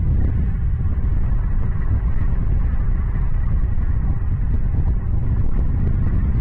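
Steady low rumble of wind buffeting the microphone, an even noise without distinct events.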